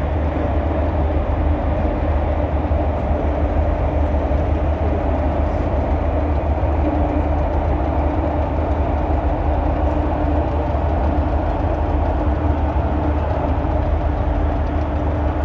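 Steady low drone of the ferry Aline Sitoé Diatta's engines heard on board, with a constant hum and no change in pitch.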